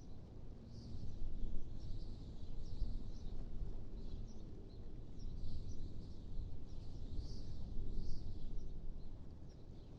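Wind ambience: a low rumble that swells and eases in gusts every second or two, with faint high chirping of small birds over it.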